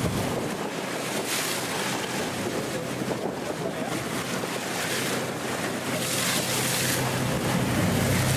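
Wind and water rushing past a boat under way at sea, with wind buffeting the microphone. A low engine drone is strong at the start, drops away about half a second in, and returns near the end.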